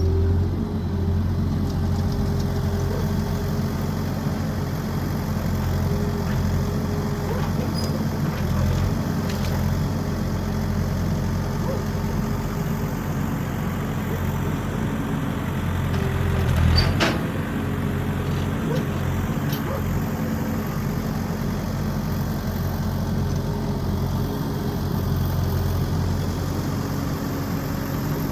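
An engine running steadily at an even speed, with one sharp knock about 17 seconds in.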